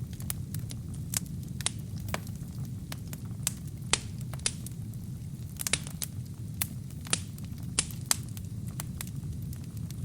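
Burning wood fire crackling: irregular sharp pops and snaps, a few louder ones, over a steady low rumble of the flames.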